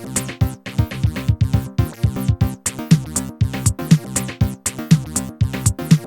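Techno pattern from an electronic drum machine and synthesizer: dense, steady percussive hits with bright, fast hi-hat ticks and a low hit that drops in pitch about once a second.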